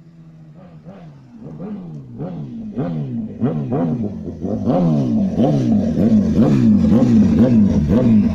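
Kawasaki ZX10R inline-four through an aftermarket SC-Project exhaust, revved in quick throttle blips about twice a second, each a sharp rise and fall in pitch. It grows much louder over the first few seconds, then stays loud.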